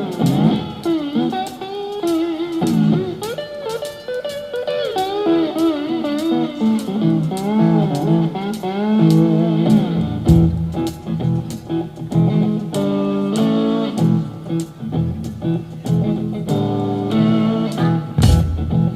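Live blues band playing an instrumental passage: an electric guitar lead with bending, wavering notes over a bass line and a steady beat of sharp hits.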